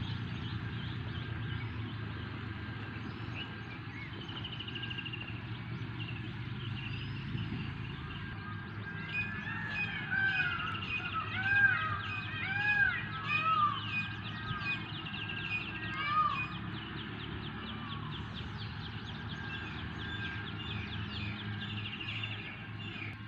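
Indian peafowl calling: a run of short, loud, arching calls repeated over several seconds in the middle, with small birds chirping high and a steady low hum underneath.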